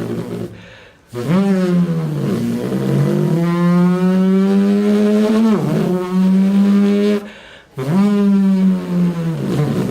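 A man's voice imitating a supercar engine starting and revving: long droning notes that rise in pitch, hold and fall back, broken by short pauses for breath about a second in and again after seven seconds.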